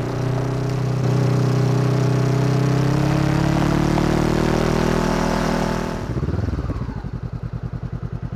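2013 Honda CB500X's parallel-twin engine through its Staintune aftermarket exhaust, running steadily under way with wind noise and rising slightly in pitch. About six seconds in the wind dies away and the engine drops to a low, even pulsing as the bike slows toward idle.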